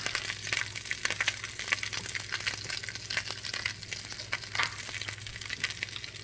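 Food frying in hot oil: a dense, irregular crackle of pops and sizzle, over a steady low hum.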